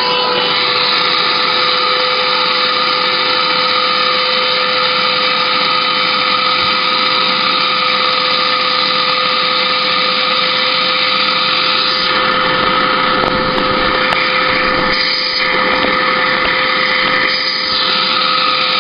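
Small 1100-watt Hoover vacuum cleaner motor running flat out with a steady high whine, mineral spirits sucked into it and the machine starting to smoke. The sound wavers briefly a couple of times near the end.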